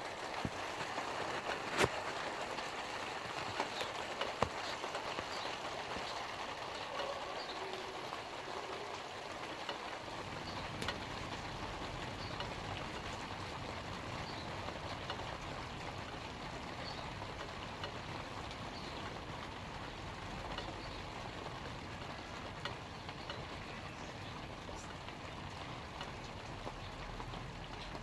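Light rain falling on leaves: a steady hiss of rain with scattered single drop hits. A faint low rumble comes in about ten seconds in.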